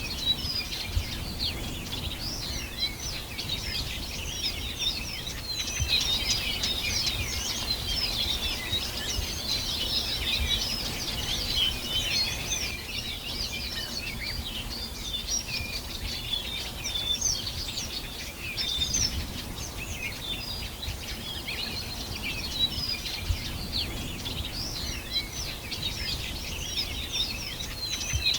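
A chorus of many birds singing together: dense, overlapping high chirps and short song phrases that never pause, over a low background rumble.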